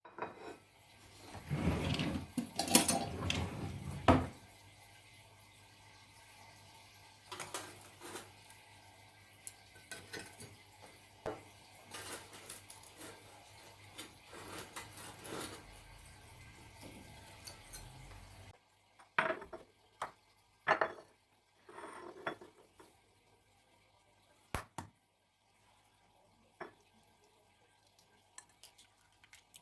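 Dishes and cutlery clinking and clattering as breakfast is prepared, with a denser, louder clatter in the first few seconds, then scattered sharp clinks of things being set down.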